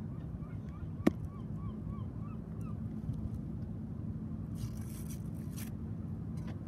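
A bird calling in a quick run of short rise-and-fall calls, about four a second, that stops a little under three seconds in, over steady low background noise. A single sharp click about a second in is the loudest sound, and there is a brief hiss near the five-second mark.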